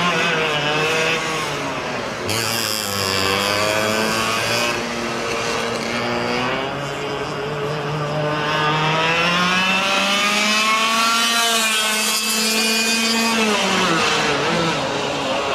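Easykart 125 kart's 125 cc two-stroke engine running at speed on track. Its pitch rises and falls with the throttle: a long steady climb through the middle, then a sharp drop near the end as it comes off the throttle.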